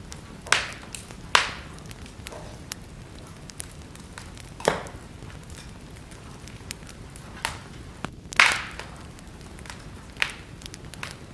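Wood fire burning in a fireplace: a steady soft hiss with scattered sharp crackles and pops, about half a dozen loud ones, the loudest about eight seconds in.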